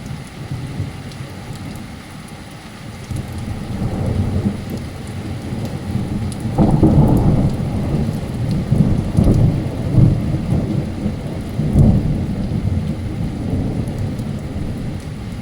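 A long roll of thunder over steady heavy rain: the low rumble builds about three seconds in, peaks several times in the middle, then slowly dies away.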